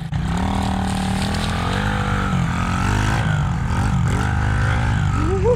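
Dirt bike engine revving up and down, pitch rising and falling, as the rear tire spins in mud with no traction.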